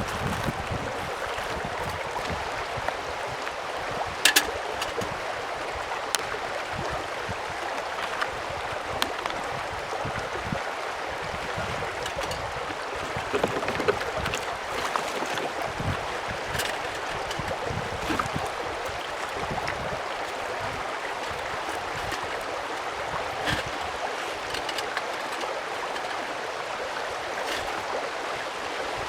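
Mountain stream rushing steadily, with scattered sharp clicks and a louder snap about four seconds in.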